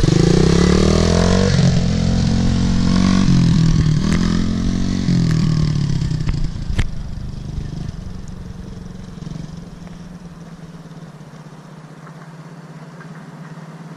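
Motorcycle engine revving as the bike rides, its pitch rising and falling several times, then fading away over the second half to a faint steady hum. A single sharp click about seven seconds in.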